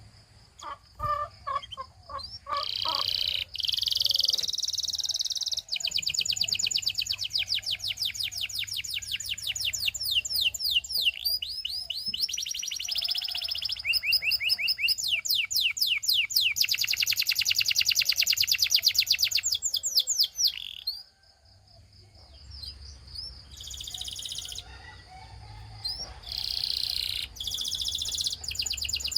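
Domestic canary singing long rolling trills, each phrase a fast run of repeated high notes, with a short pause about two-thirds of the way through before the song starts again.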